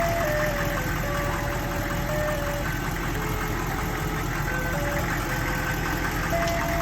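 Ice cream truck's engine idling steadily, with the truck's jingle playing a simple melody of thin single notes over it.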